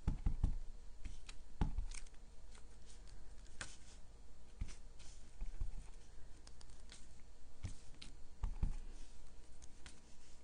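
Rubber-stamping on paper by hand: scattered light clicks and paper rustles, with a few soft thumps as the stamp is inked and pressed onto the back of an envelope.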